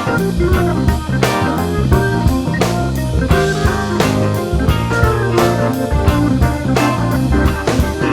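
Instrumental passage of a blues song: guitar over a steady drum-kit beat with bass, no vocals.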